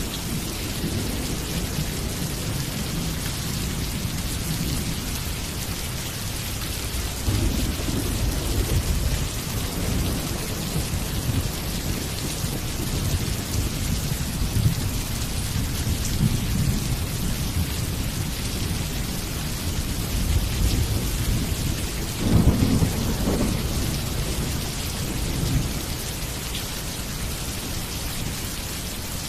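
Steady rain falling with thunder rumbling low underneath. The thunder swells a few times and is loudest about two-thirds of the way through.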